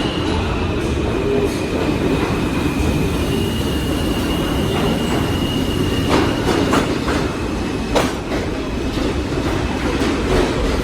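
Subway refuse train with a retired R42 car running past: a steady rumble of wheels on rail, with a thin high wheel squeal that fades out about eight seconds in and a few sharp clacks over rail joints near the end.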